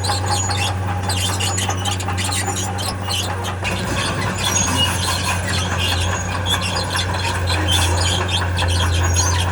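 Tracked earthmover, a crawler bulldozer or excavator, with its diesel engine running as a steady low drone. Over it come many short, irregular high squeaks and rattles from the steel tracks and undercarriage.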